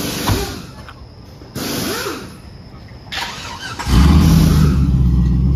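LS V8 in an OBS Chevy truck, running through a loud exhaust that has no muffler yet. It is quieter at first, with a few short rushes of noise, then about four seconds in it comes up to a loud, deep engine drone as the truck pulls away.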